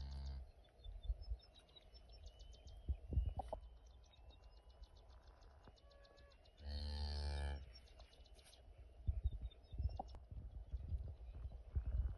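Mother cow giving a low, soft moo to her newborn calf: a short one as the sound opens and a louder one lasting about a second some seven seconds in. Between the calls come irregular rustles and knocks from the cow and calf moving as she licks it.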